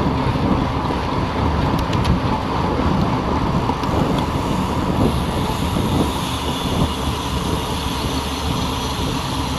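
Steady rushing wind buffeting the microphone, with road and tyre rumble from a bicycle rolling at speed.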